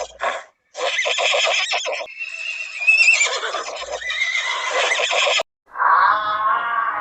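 Horse whinnying: a stuttering neigh for about two seconds, then a long wavering whinny that cuts off abruptly about five and a half seconds in. A steady pitched tone starts near the end.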